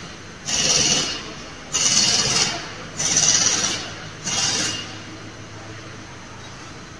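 Four rasping strokes about a second apart, each a hissing scrape, over a steady low machinery hum; the strokes stop about five seconds in.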